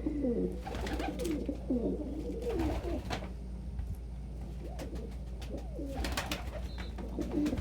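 Domestic pigeons cooing over and over in low, bending calls, with a few short rustling noises in between.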